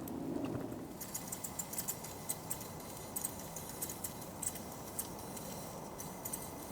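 A modified propane heater burning with a faint steady hiss, and irregular light ticks and clicks over it.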